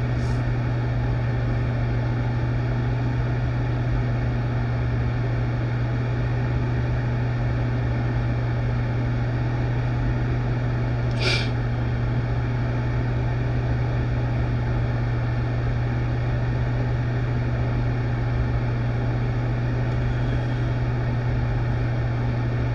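Steady low hum with an even hiss over it, holding level throughout, and a single short click about eleven seconds in.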